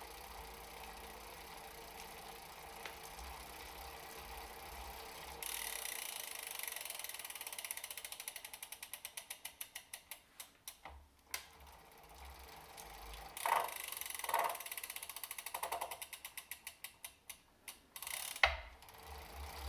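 Elite Suito-T smart trainer: the drivetrain runs steadily at first, then twice the freehub ratchet ticks as the pedals stop and the flywheel coasts, the clicks getting slower each time. During the second coast-down a few louder knocks come, and a sharp knock follows near the end. This is the knocking that happens when freewheeling, which the owner suspects could come from the freehub.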